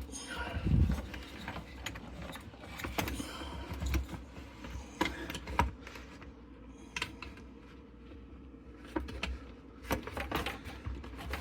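Scattered small clicks and knocks of plastic parts being handled while an electrical plug is worked onto a mass airflow sensor connector, with a dull thump about a second in.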